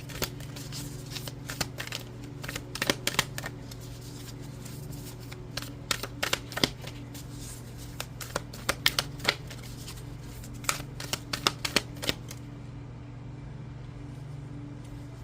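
A deck of animal oracle cards being shuffled by hand: quick clusters of papery card slaps and clicks that stop about twelve seconds in, over a steady low hum.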